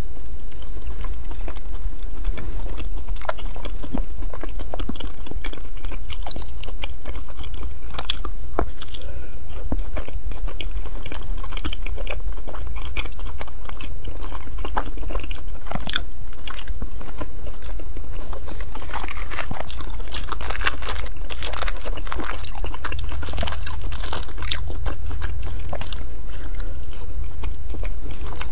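Close-miked biting and chewing of soft, coated mochi-style rice cakes, with many short wet mouth clicks and smacks over a steady low hum.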